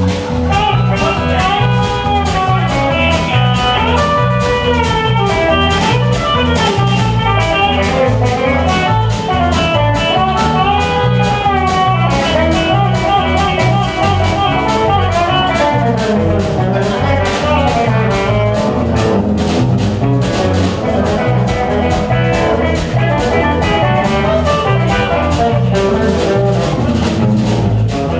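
Band playing an instrumental break in a blues song: a lead guitar line with bending notes over a steady drum beat and bass.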